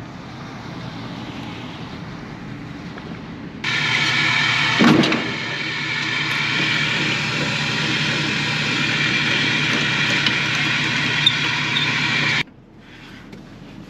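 Vehicle running, engine and road noise. It is much louder through the middle stretch, which starts and stops abruptly, with one heavy knock about five seconds in.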